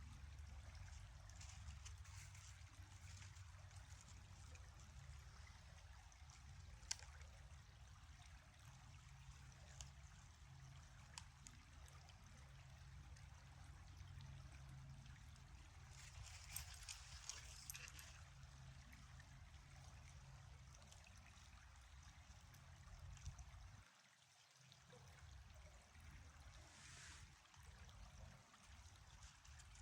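Faint, steady rush of a river's flowing water, with a single click and a couple of brief brighter swells. A low rumble underneath drops away sharply about three quarters of the way through.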